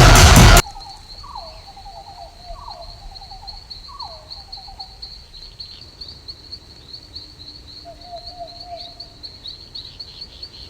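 Loud music cuts off half a second in, leaving a steady, high, pulsing insect trill like crickets chirping. Over it come a few lower calls, each falling in pitch and trailing into a quick stutter of notes.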